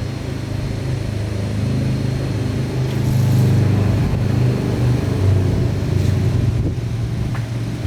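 A motor running with a steady low hum, growing louder about three seconds in.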